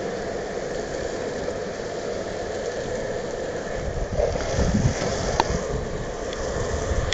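Longboard wheels rolling over wet pavement: a steady hiss and rumble, with a low gust of wind on the microphone near the end and a single sharp click about five seconds in.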